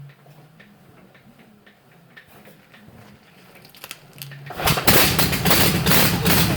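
A few faint clicks, then about four and a half seconds in a Liberty V12 engine fires and catches. It runs loud and rough with rapid firing pulses, on its first start after some sixty years in storage.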